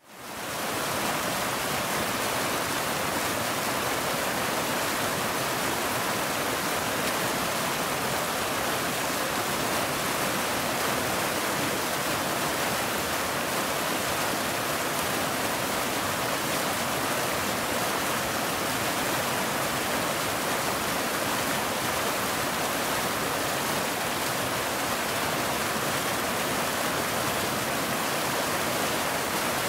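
Waterfall: a steady, even rush of falling water, fading in over the first second.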